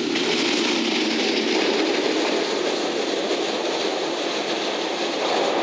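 Electric train running past close by: a steady rumble and hiss of steel wheels on the rails, with some clickety-clack over the rail joints.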